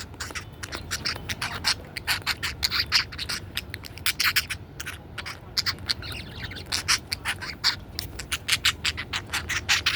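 Pet budgie chattering: a rapid, irregular string of short, sharp squawks, chirps and clicks.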